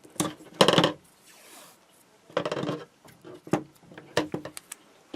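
Handling noise at a workbench: small tools and objects knocked and set down on a hard surface, in about half a dozen short clatters, the loudest just under a second in.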